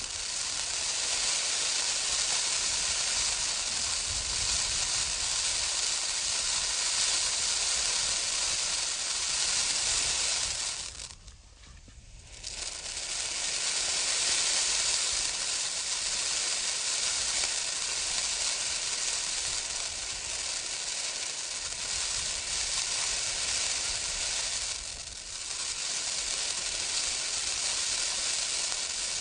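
Ground fountain firework spraying a stream of gold, white and coloured crackling sparks, with a steady loud hiss. The hiss drops away briefly about eleven seconds in, then resumes.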